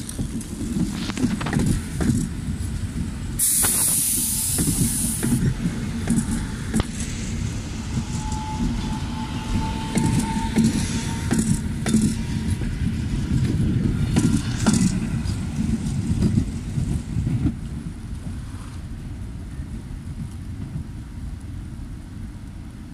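Regional electric multiple unit passing close on snowy track: a steady low rumble with scattered sharp clacks of wheels over rail joints. A loud hiss rises about three and a half seconds in and lasts about two seconds, and a faint thin whine sounds for a couple of seconds midway.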